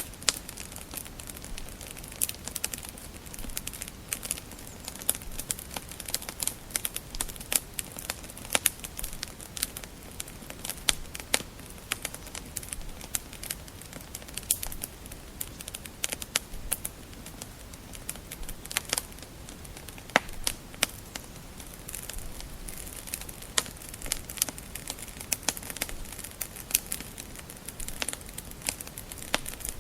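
Wood fire crackling steadily, with irregular sharp pops and snaps over a soft hiss of burning logs.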